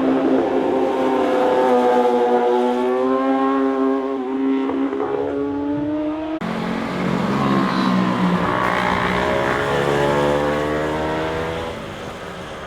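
Motorcycle engines passing: the first bike's engine note climbs gradually as it accelerates, then after an abrupt change about six seconds in, a second engine note rises and then fades away near the end.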